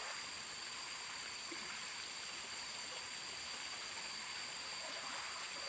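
Mountain stream running and trickling over rocks, a steady rush of water.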